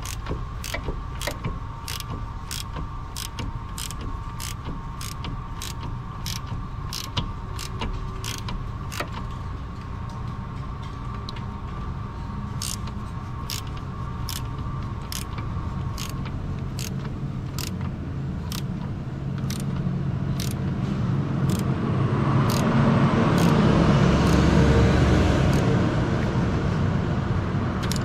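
Regular mechanical clicking, about two to three clicks a second, that slows and spaces out through the middle and dies away, followed near the end by a rising rush of noise.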